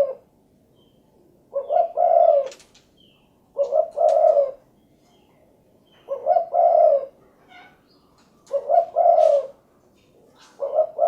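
Spotted dove cooing: repeated phrases of a few short coos running into a longer rolling coo, one phrase about every two and a half seconds, five phrases in all.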